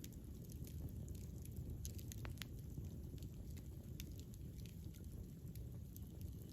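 Campfire burning, a steady low rumble of the flames with frequent irregular crackles and pops from the burning wood.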